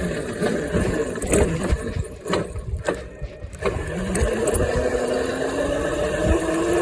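Electric dirt bike's motor whining, rising in pitch from about four seconds in as it speeds up, over rumbling wind and rolling noise. There are a few sharp knocks and rattles in the middle, where the level briefly drops.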